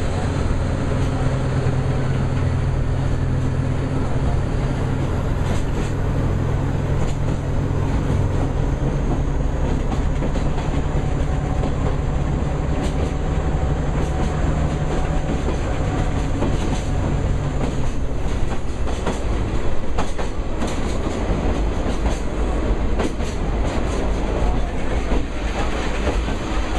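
Open-sided sightseeing train car running through a tunnel: a loud, steady rumble of wheels on rails with scattered clicks and clacks from the track. A low hum under the rumble fades out about two-thirds of the way through.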